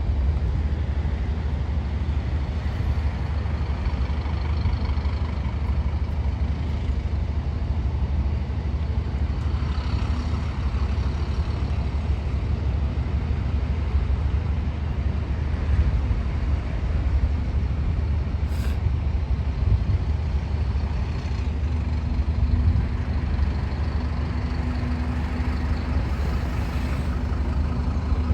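A Scania N230UD OmniCity double-decker bus's diesel engine running, with a steady low rumble.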